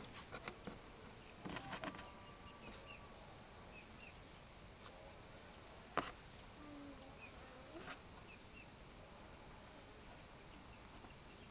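Steady high-pitched insect chorus, with scattered small clicks and knocks, the sharpest about halfway through.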